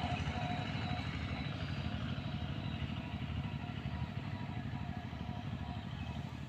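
Small farm tractor's engine running steadily while ploughing, a fast even low pulse.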